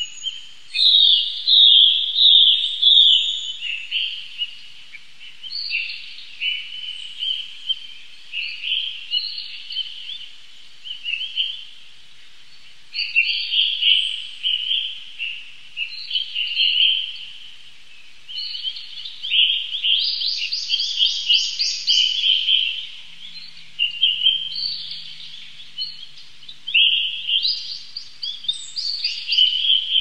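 Small birds chirping and calling in short, repeated bursts of high notes, with a fast trill of rapid notes about twenty seconds in.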